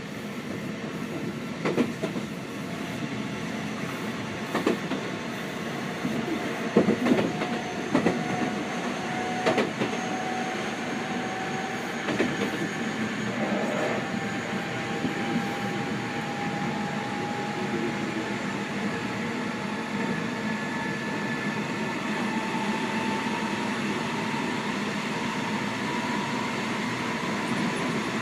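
Seibu 6000 series electric train running, heard from inside the car: a motor tone climbs slowly in pitch as the train gathers speed over a steady running rumble. Several clacks of wheels over rail joints come in the first half.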